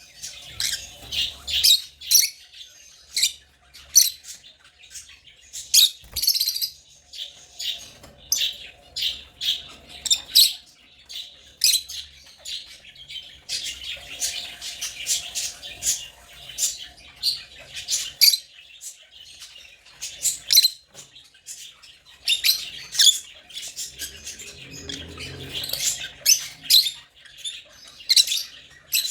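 African lovebirds chirping: short, high-pitched calls in quick succession, with hardly a pause.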